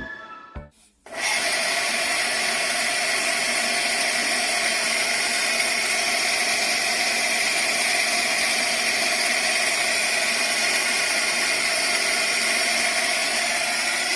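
Electric water pump motor starting about a second in and running steadily, a whirring hum under a constant rush.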